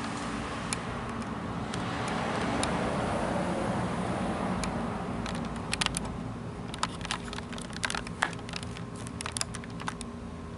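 A steady outdoor rushing noise that swells a couple of seconds in and then eases off. After the middle comes a run of quick, sharp, irregular clicks.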